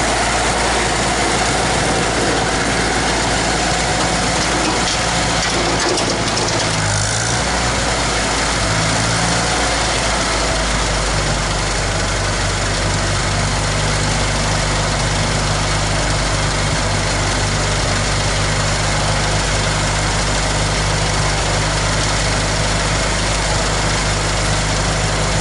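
International 2444 tractor's gasoline engine running, freshly fitted with new ignition points and a cleaned carburetor. Its speed shifts a few seconds in, then it settles into a steady idle.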